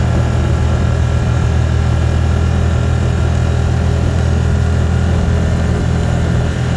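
Steady low drone of a vehicle's engine and road noise heard from inside the cab while driving.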